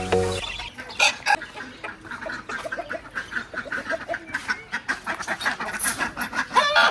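A flock of hens clucking, many short calls overlapping several times a second, with one louder drawn-out squawk near the end. A music sting cuts off in the first half second.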